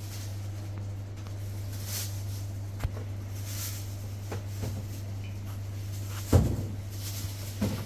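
A steady low hum with a few sharp knocks and clatters. The loudest comes about six seconds in, with another just before the end.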